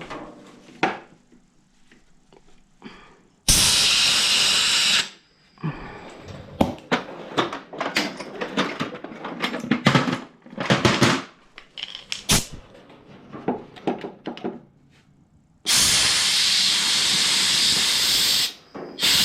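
Compressed air blown through the passages of a push mower's carburetor to clear them: a hissing blast of about a second and a half, then one of about three seconds near the end. Between the blasts there are clicks and clatter of small parts and tools being handled.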